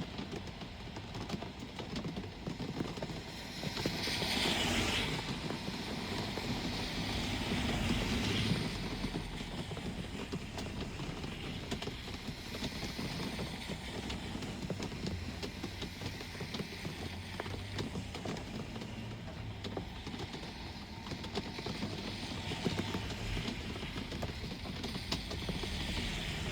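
Steady rain with road traffic on wet streets. About four seconds in, a vehicle's tyres hiss past on the wet road.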